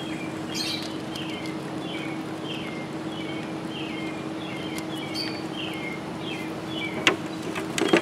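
A small bird chirping over and over, short slightly falling chirps two or three a second, over a steady low hum. Near the end, a couple of sharp metallic clanks as the aluminium boil basket is knocked and set down.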